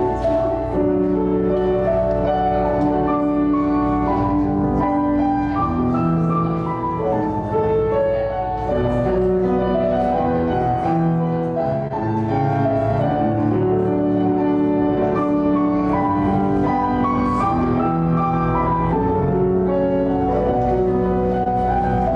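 Slow instrumental keyboard music: long held chords changing every second or two over a sustained low bass.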